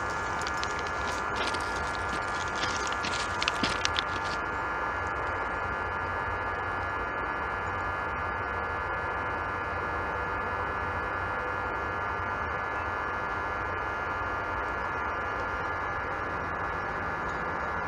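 Steady hum with a faint, even high-pitched whine from a train approaching far down the track, not getting louder. A few light clicks between about one and four seconds in.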